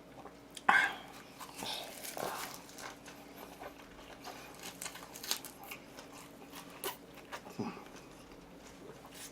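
Close-up eating sounds: chewing and mouth noises with scattered small clicks, and one louder short sound about a second in.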